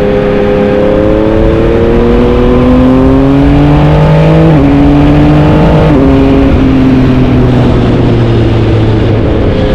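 Yamaha MT-09's three-cylinder engine pulling hard with revs climbing for about four seconds, then dropping in pitch twice a second or so apart as it shifts up, and easing off toward the end.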